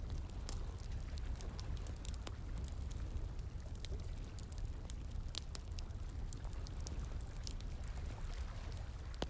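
Campfire crackling, with irregular sharp pops and snaps, over the steady rush of a flowing stream.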